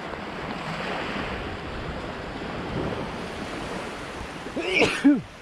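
Gentle surf washing onto a beach, with wind on the microphone. A short vocal sound comes near the end.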